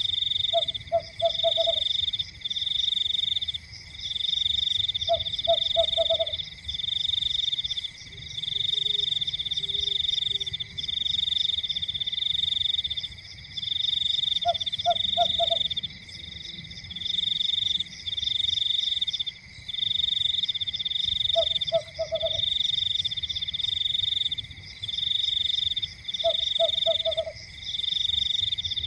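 Night chorus of calling frogs: a continuous high trilling that pulses in roughly one-second phrases with brief breaks. Five times, a lower call of three or four quick croaking notes sounds over it.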